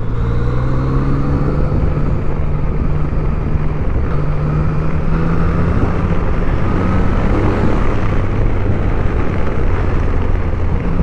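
Yamaha Tracer 900 GT's three-cylinder engine pulling steadily through its stock exhaust under way, its pitch rising in the first second or so as it accelerates.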